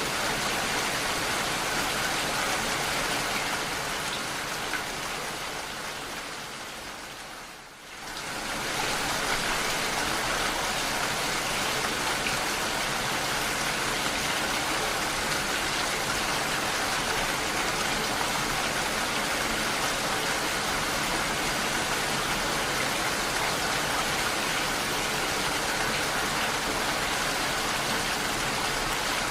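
Steady rain, an even hiss of falling water. It fades down over a few seconds, drops out briefly about eight seconds in, then comes straight back at full level.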